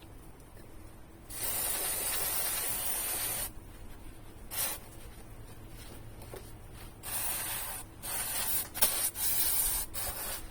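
Aerosol spray can hissing in bursts: one long spray of about two seconds, a short puff, then a cluster of shorter sprays near the end.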